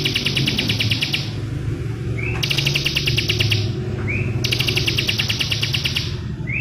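Bar-winged prinia (ciblek) singing: three fast trills of rapidly repeated high notes, each about a second and a half long and each opened by a short rising chirp, with another chirp near the end. A steady low rumble runs underneath.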